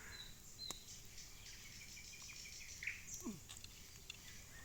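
Quiet forest ambience with a few faint bird chirps and a short falling call a little after three seconds.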